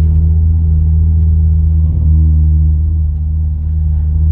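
Hyundai Genesis Coupe's 2.0-litre turbocharged four-cylinder engine running at a steady pitch while the car is driven, with no rev swings in this stretch.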